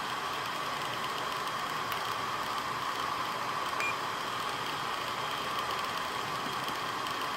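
Razer Blade Pro (2016) laptop cooling fans running at high speed with a steady, loud whir. This is the excessive fan noise that its owner considers a defect still present after factory repair.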